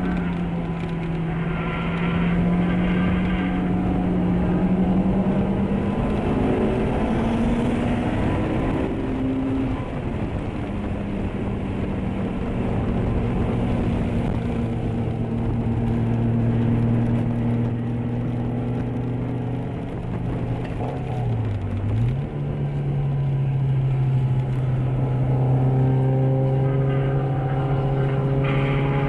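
Honda S2000 four-cylinder engine heard from inside the cabin under track driving, with tyre and road noise beneath. The engine note climbs steadily, drops sharply at a gear change about ten seconds in, and holds lower. About two-thirds of the way through it dips briefly and then jumps up to a higher, steady note, as on a downshift.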